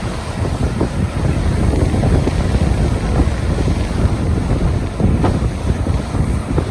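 Crashing, churning water where a rain-swollen river meets the incoming tide, with strong wind buffeting the microphone.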